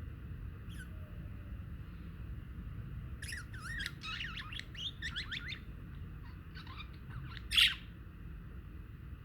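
Budgies chattering: a quick run of warbling chirps a few seconds in, a few more after a short pause, then one loud squawk near the end, over a steady low rumble.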